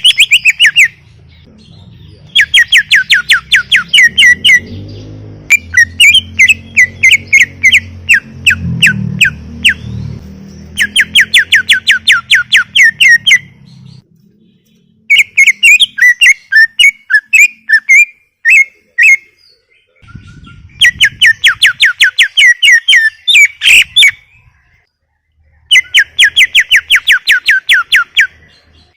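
Cucak ijo (greater green leafbird) singing in loud phrases of rapid repeated whistled notes. The phrases last a second or two each, about eight of them, with short pauses between.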